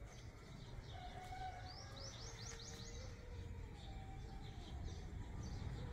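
A bird chirping: a quick run of about seven short, rising high notes about two seconds in, with fainter chirps before and after, over a steady low rumble.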